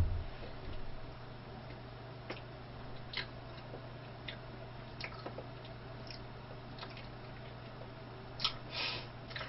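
Quiet chewing with faint wet mouth clicks and smacks every second or so, over a steady low electrical hum. A sharper click and a short breathy noise come near the end.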